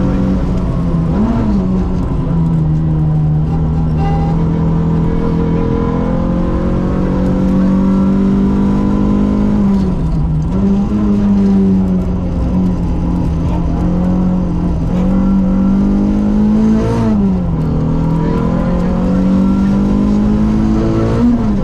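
Rally car engine heard from inside the cabin, running hard at steady revs, its pitch climbing slowly and breaking sharply about four times.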